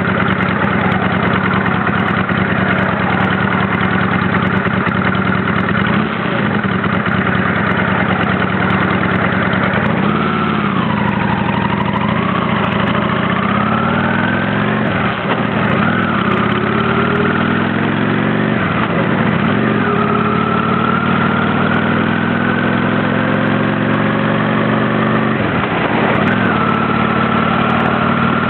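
Honda Shadow 600's V-twin engine running under way. The note dips and recovers about a third of the way in, then climbs in rising sweeps, each broken by a short drop in pitch: the motorcycle accelerating through several upshifts.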